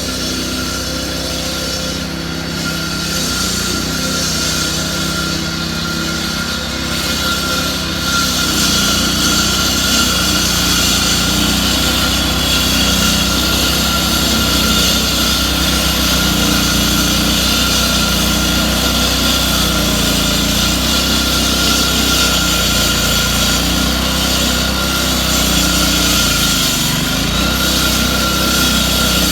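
Engine of road-work machinery running steadily, with a steady high whine, getting louder about eight seconds in.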